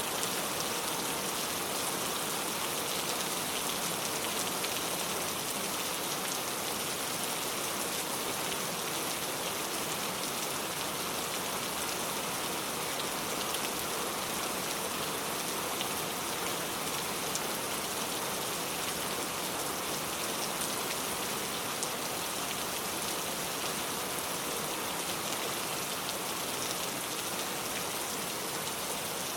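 Steady rainfall, an even hiss of rain with scattered drops ticking on surfaces.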